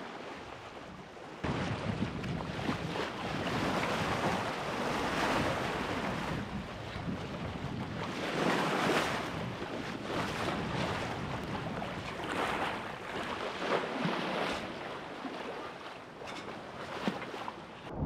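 Sea water rushing and splashing along a sailboat's hull as it sails offshore, swelling in surges every few seconds, with wind buffeting the microphone. It gets suddenly louder about a second and a half in.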